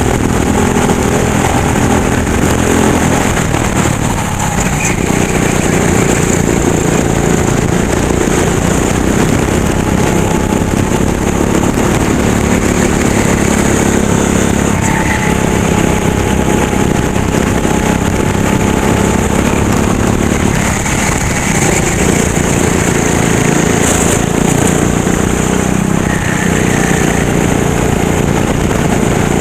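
Go-kart engine running hard on track, its pitch dropping and rising again several times as the kart slows for corners and accelerates out.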